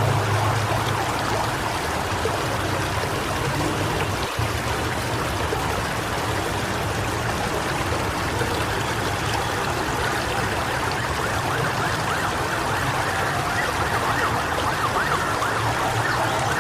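Steady rushing storm noise, with faint wavering tones coming in over it near the end.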